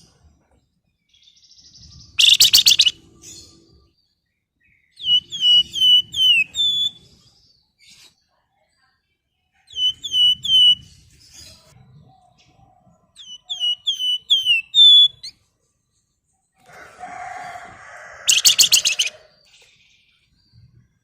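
Flamboyan songbird singing: runs of short, quick, down-slurred whistled notes, broken by two loud harsh buzzing rattles, one about two seconds in and one near the end.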